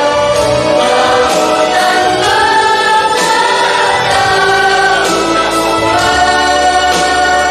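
Mixed choir singing in sustained, many-voiced harmony over instrumental accompaniment with held bass notes.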